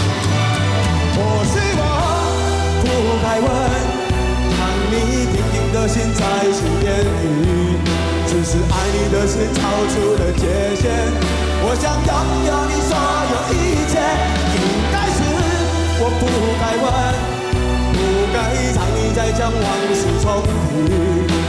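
Live band music: a pop-rock song played loudly, with a steady bass and drum beat under a wavering melodic lead line and no clearly sung words.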